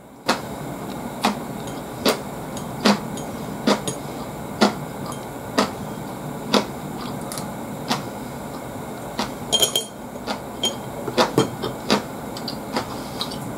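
A person chewing crunchy vegetable pieces with the mouth close to the microphone: a sharp crunch about once a second over a steady hiss.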